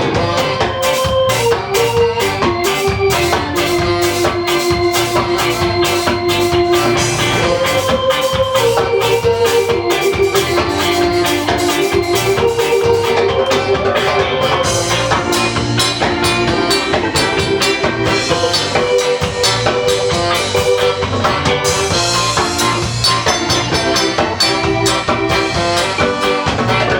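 Live ska band playing an instrumental passage: drum kit keeping a steady off-beat rhythm with cymbals, under a sustained melody line that moves step by step.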